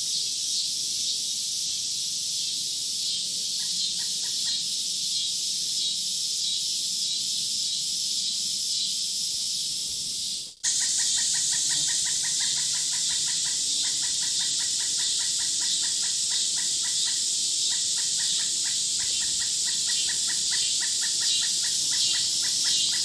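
Steady, high-pitched chorus of insects in woodland, with a rapid, evenly repeated pulsing call in the middle of the range. A brief dropout comes a little past halfway, and the pulsing call is denser after it.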